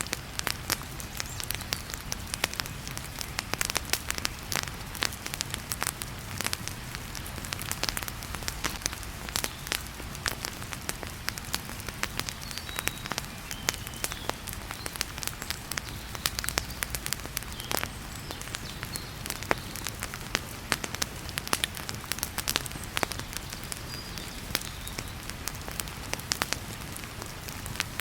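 Wood fire crackling in a fireplace, with many sharp irregular pops and snaps over a steady hiss of heavy rain and a low rumble.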